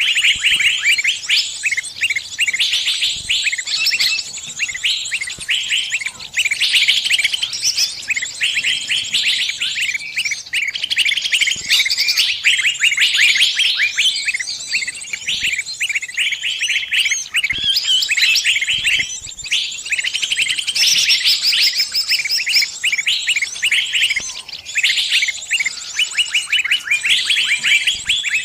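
Small songbird giving distress calls, as a trapped bird calls its flock for help: rapid, high-pitched chirps in fast continuous runs broken by brief pauses.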